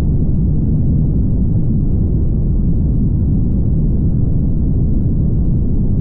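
Steady low road rumble of a car driving at highway speed, tyre and wind noise with no change in level.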